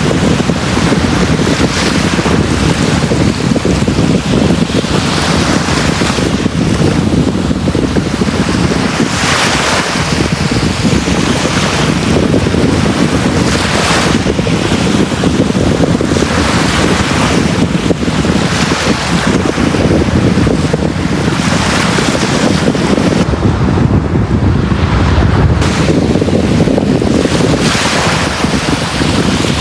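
Sea waves breaking and washing on a beach: a steady, loud rush of surf that swells every few seconds.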